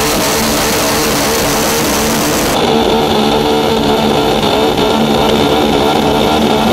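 Drag-racing car engine running loudly at steady revs; a hiss in the high range falls away about two and a half seconds in.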